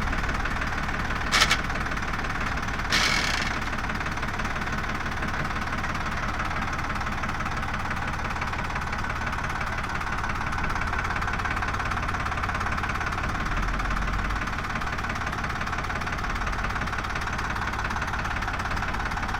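Diesel engine of a backhoe loader or tractor running steadily, with a short sharp noise about one and a half seconds in and a brief hissing burst about three seconds in.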